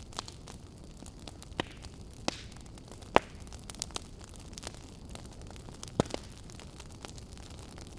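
Wood fire burning with a steady low rumble and hiss, and sharp crackles and pops scattered irregularly, the loudest about three seconds in.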